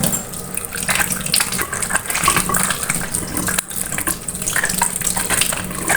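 Water running from a tap and splashing as food is washed under it.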